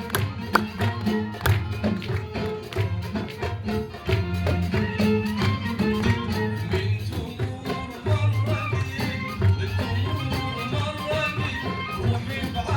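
Live band playing Iraqi traditional music, with drum strokes under a melody line.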